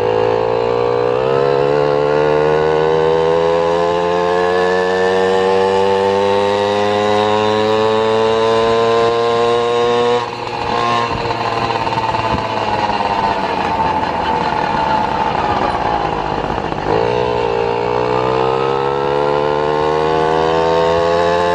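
Motorcycle engine pulling under load, its pitch climbing steadily for about ten seconds before a brief break at a gear change. It then slows with a falling note and picks up again with a rising note near the end.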